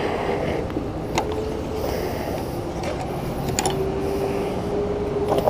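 Sport motorcycle with a loud exhaust, its engine running steadily with an even drone. A few sharp clicks come through, about a second in and again near the end.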